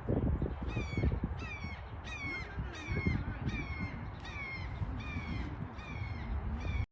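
A bird calling over and over, about nine falling, nasal-sounding calls roughly one every 0.7 seconds, over a low rumble; all sound cuts off suddenly at the end.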